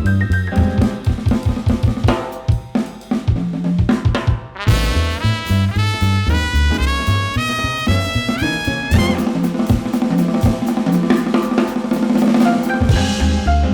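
Jazz band playing live, with the drum kit to the fore over a walking low bass line. From about a third of the way in, a bright melodic line climbs and falls in clear stepped notes for about four seconds before the full band comes back in.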